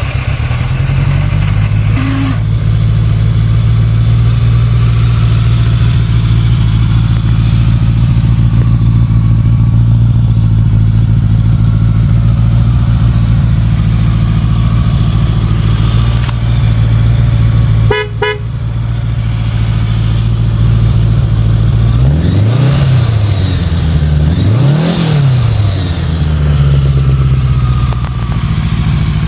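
1983 Honda GL1100 Goldwing's liquid-cooled flat-four engine idling steadily. About 22 and 25 seconds in, the throttle is blipped twice, each time rising and falling back to idle. There is a brief break with a click about 18 seconds in.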